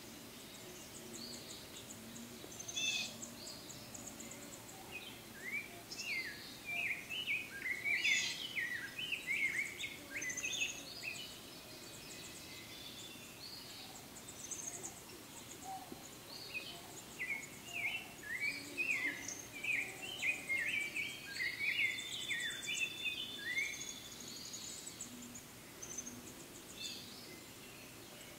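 Songbirds chirping and singing in quick runs of short notes, coming in two long busy bouts over a steady background of outdoor ambience.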